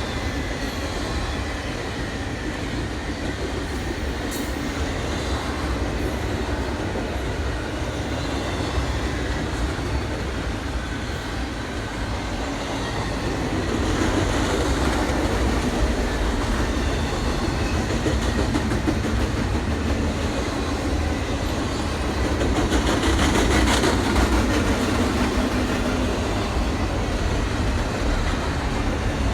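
A train rolling along the track, a steady rumble of wheels and cars with a rhythmic clickety-clack over the rail joints. It swells louder about halfway through and again near the end.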